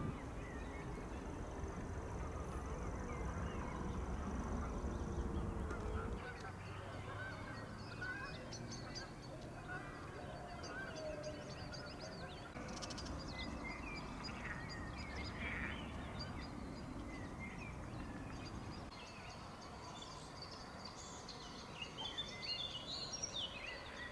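Several birds calling and singing, mostly short high chirps with a few lower calls. A low rumble fills the first six seconds, then stops suddenly.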